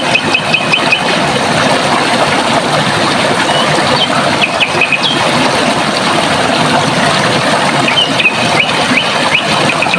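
Running water rushing steadily, with a songbird singing short, rapid trills of repeated notes: one at the start, a few calls about halfway, and another trill near the end.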